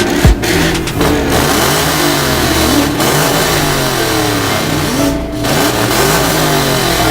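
Several car engines revving up and down, their pitches rising and falling over one another, with one loud low thump just after the start.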